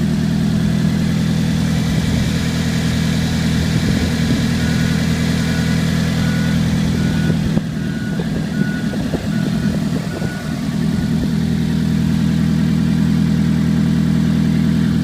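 2005 Nissan Altima's 2.5-litre four-cylinder engine idling steadily. A faint beep repeats about twice a second for several seconds in the middle.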